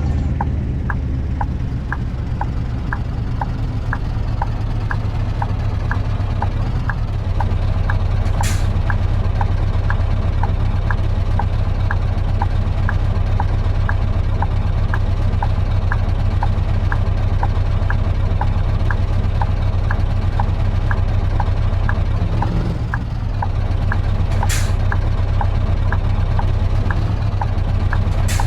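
Scania V8 diesel truck engine running steadily under way, with a regular ticking about twice a second. Three short hisses cut through it, one about a third of the way in, one near the end and one right at the end.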